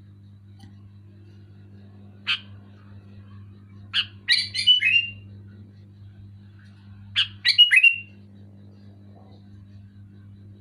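Sooty-headed bulbul calling: one short note about two seconds in, then two bursts of several quick, chattering notes, one around four seconds in and one around seven seconds in. A steady low hum runs underneath.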